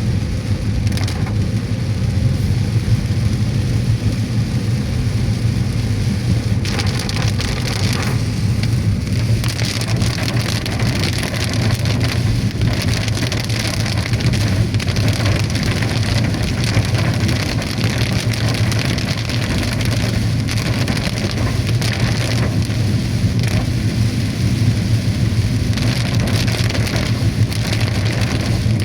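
Heavy rain pelting a moving car, heard from inside, as a steady dense hiss that swells and eases in patches over the low, even hum of the car's engine and tyres.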